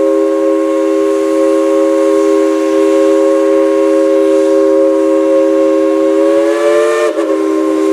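Steam locomotive's Central of Georgia Crosby three-chime whistle, played by the engineer as a tune, holding one long steady chord. The pitch dips briefly about seven seconds in, then the chord carries on.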